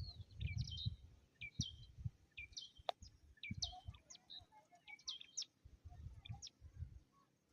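Birds calling with short, high chirps that drop sharply in pitch, repeated many times, over an intermittent low rumble.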